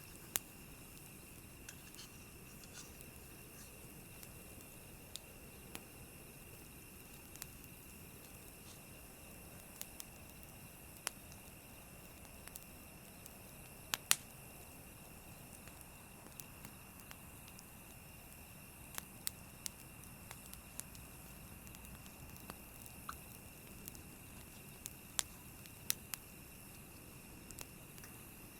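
Campfire crackling quietly, with irregular sharp pops and snaps of burning wood, a few louder than the rest, over a faint steady hiss.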